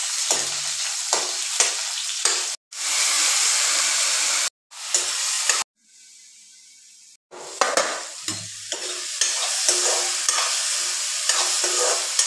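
Potato strips frying in hot oil in a wok, sizzling steadily, with a metal spoon scraping and clicking against the pan as they are stirred. The sizzle cuts off abruptly a few times, and for a second or so around the middle it drops to a faint hiss under the pan's lid.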